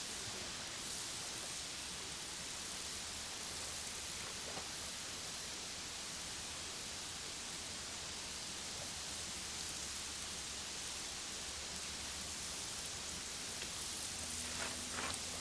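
Steaks sizzling on a grill over a campfire: a steady hiss, with a couple of faint clicks near the end.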